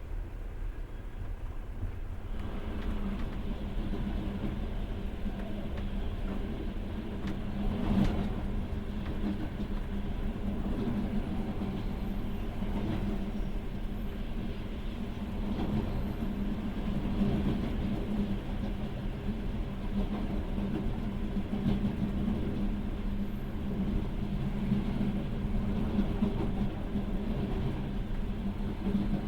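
Passenger train running on rails, heard from inside the carriage: a steady rumble that grows louder about two seconds in, with occasional wheel knocks and one sharp click about eight seconds in.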